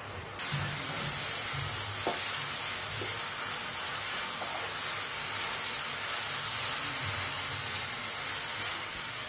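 Grated papaya in ghee and sugar syrup sizzling steadily in a nonstick pan while a wooden spatula stirs and scrapes it, as the syrup cooks down to dryness. The sizzle picks up about half a second in, with a couple of light spatula taps a few seconds in.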